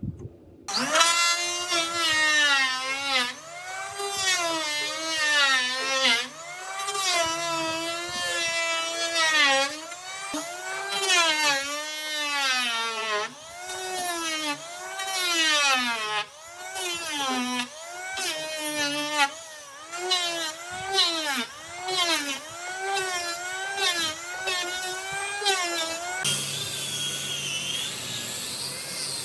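Handheld power tool working wood, its motor pitch repeatedly sagging under load and recovering, about once a second. Near the end it gives way to a steadier, noisier machining sound with a high whine.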